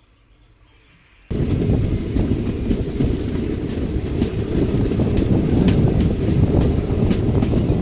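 A passenger train running on the rails: a loud, steady low rumble with faint clicking from the wheels. It cuts in suddenly about a second in, after faint birdsong and insects.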